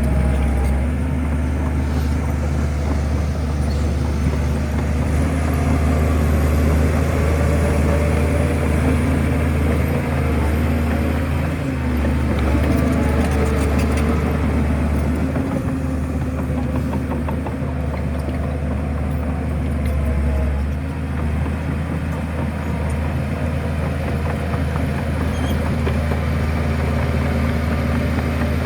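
Shantui bulldozer's diesel engine running steadily with a deep, even hum, with some faint clicks around the middle.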